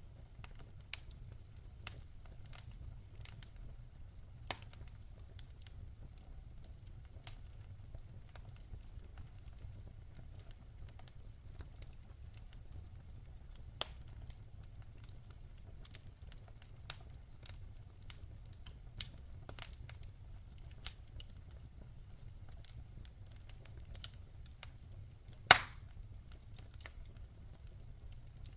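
Campfire wood burning and crackling: sharp pops at irregular intervals over a low, steady rumble of the fire, with one louder pop near the end.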